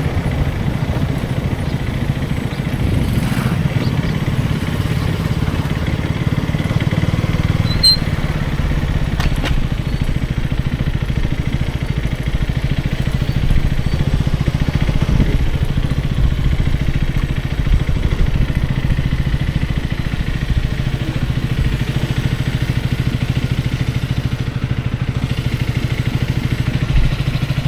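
KTM Duke 250's single-cylinder engine running steadily at low, even revs, with a couple of light clicks about a third of the way in.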